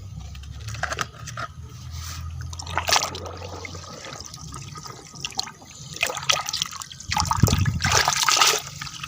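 Water trickling and splashing as muddy toys are washed, with scattered clicks and knocks of the toys being handled. The splashing grows louder about seven seconds in.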